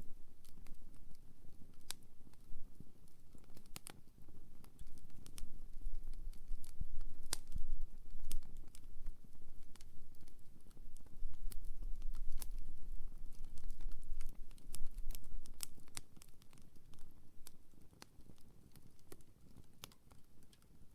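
Wood campfire crackling, with irregular sharp pops and snaps over a low rumble that grows louder in the middle and fades toward the end.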